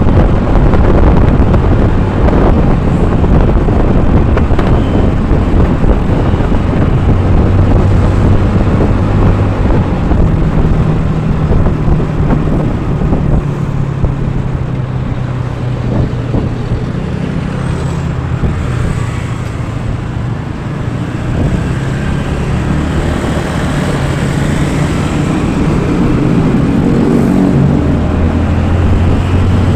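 Motor vehicle engine running while on the move, with road and wind noise; the engine note rises a step about a third of the way in and holds.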